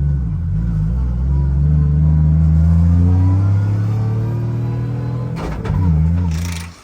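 Car engine running and revving, its pitch climbing over the first few seconds and dipping briefly about five and a half seconds in, before it cuts off suddenly near the end.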